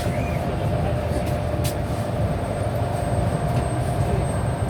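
Suburban electric train running along the track: a steady low rumble with a faint, steady whine above it.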